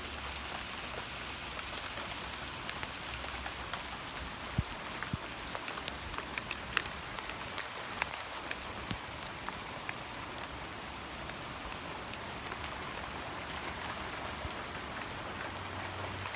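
Hail falling in a steady hiss, with sharp ticks of hailstones striking hard surfaces, thickest in the middle stretch.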